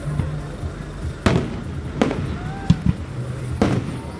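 Fireworks exploding overhead: four sharp bangs, each about three-quarters of a second after the last, over a steady background din.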